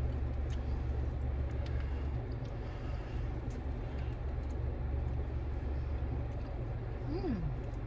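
Steady low rumble of a car's interior, with a few faint clicks and a brief falling tone near the end.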